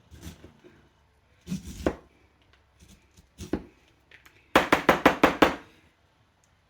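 Corn kernel cutter being worked down a cooked corn cob against a cutting mat: a few scattered knocks, then a quick run of about seven sharp taps, some six a second, a little past the middle.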